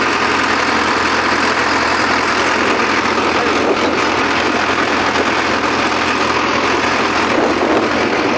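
Sonalika 750 tractor's diesel engine running steadily at an even speed.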